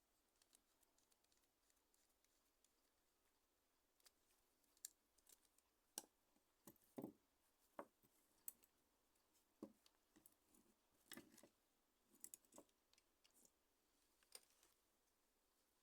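Faint, irregular small clicks and taps from handling a mobile phone's parts and small repair tools, scattered through the middle of the stretch.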